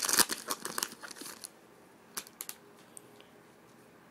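Crinkling and rustling of trading cards and their packaging being handled, busy for about the first second and a half, then a few light clicks as things settle.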